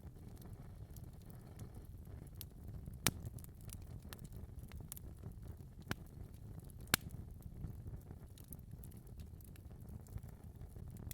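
Fire crackling in a fireplace: a steady low rumble of burning with scattered small crackles and a few sharper pops, the loudest about seven seconds in.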